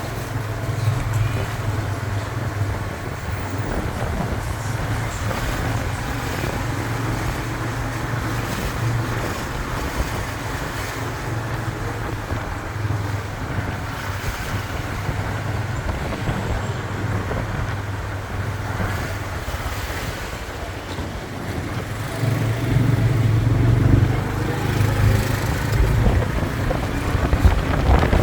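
Motorbike running along at road speed with wind buffeting the microphone. The engine gets louder about three-quarters of the way through.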